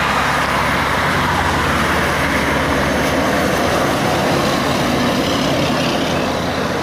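Heavy truck's diesel engine running steadily as it passes, with tyre and traffic noise; the sound eases slightly near the end.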